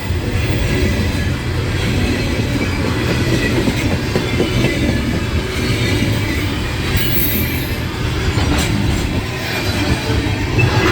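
Loaded coal hopper cars of a CSX freight train rolling past at speed: a steady heavy rumble with wheel clatter over the rails, and a brief high wheel squeal about seven seconds in.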